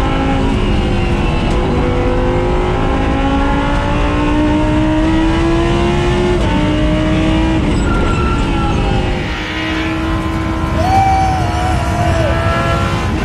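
Lamborghini Huracán Super Trofeo Evo race car's V10 engine running hard on track. Its pitch climbs slowly for about six seconds, drops, then holds steadier.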